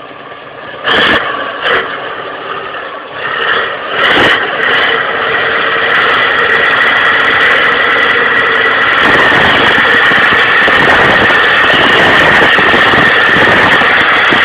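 Tractor engine running hard, with a steady high whine over it that grows louder about six seconds in. There are three sharp knocks in the first few seconds.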